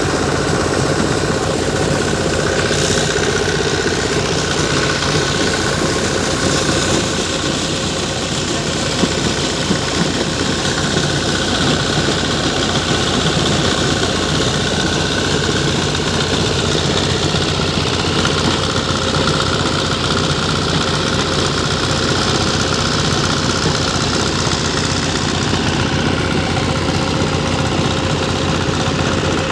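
Sonalika tractor's diesel engine running steadily under load, driving a borewell water pump through its PTO.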